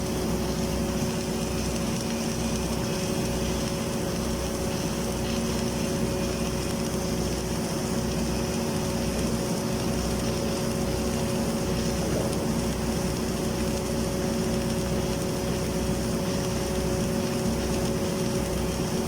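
Automatic submerged-arc girth welding rig running steadily while it lays the third, fill pass on a pipe joint: an even mechanical hum with a few steady tones and no breaks.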